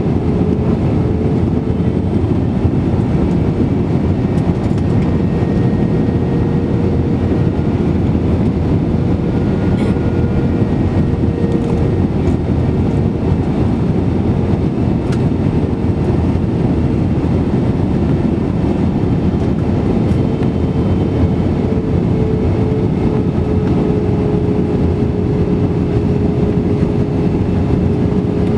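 Steady roar of cabin noise inside an Airbus A320-200 in flight, from airflow and its jet engines, with a steady hum riding over it.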